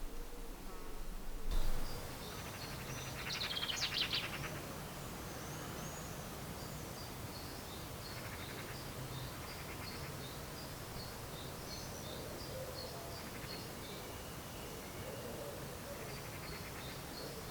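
Outdoor ambience: small birds chirping in quick, repeated short notes over a steady background hiss, with a brief busier trill about two to four seconds in.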